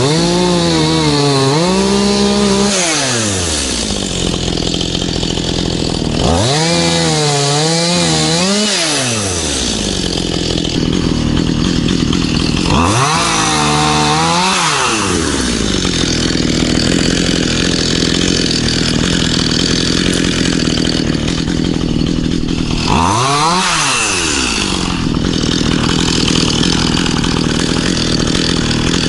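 Stihl MS211C two-stroke chainsaw revved up four times, its pitch sweeping high and wavering, then falling back to a low idle between revs, as in cutting trees and vines.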